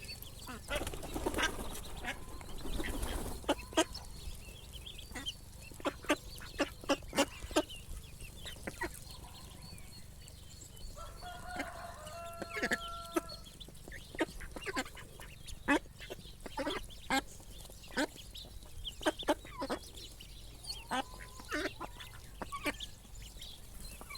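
Ducklings feeding, their bills making quick, irregular runs of sharp clicks as they peck and dabble at food. A short call rings out about halfway through.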